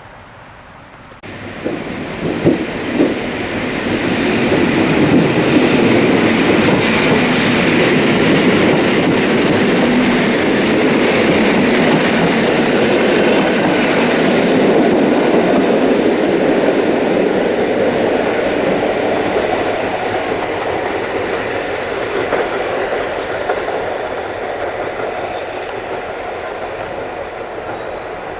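A train passing close by on the track: loud wheel-on-rail noise that starts suddenly about a second in, with a few sharp clicks of wheels over rail joints early on, swelling to its peak midway and then slowly fading.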